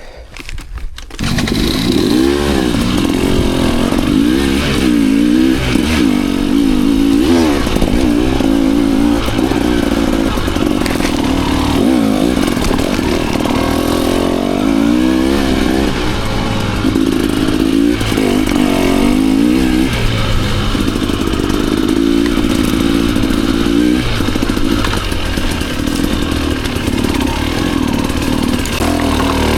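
Enduro dirt bike engine revving up and down as it is ridden along a trail, the pitch rising and falling constantly with the throttle. It comes in loudly about a second in.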